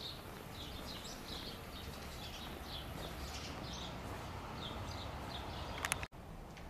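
Small birds chirping over and over, a few short chirps a second, over a low steady rumble. Near the end there are a couple of sharp clicks, and then the sound cuts off abruptly.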